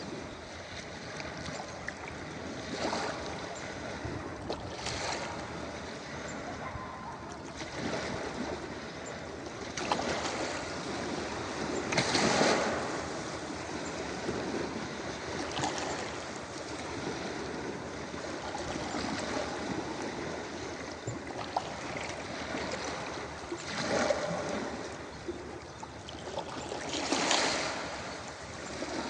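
Ocean waves breaking on a beach: a steady wash of surf with a wave surging and crashing every few seconds, the loudest about twelve seconds in and again near the end.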